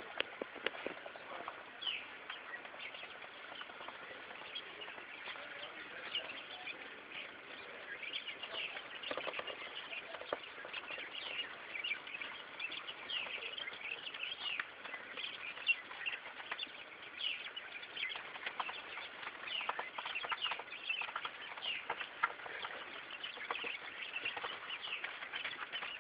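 Quail chirping over and over with short, high calls, mixed with wing flutters and light scratching as the birds bathe in sand.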